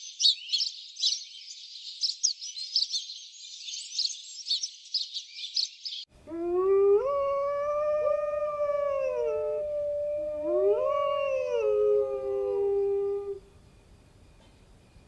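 Dense high-pitched chirping, then after an abrupt cut a dog howls: one long howl of about seven seconds that rises, holds, falls and rises again before stopping.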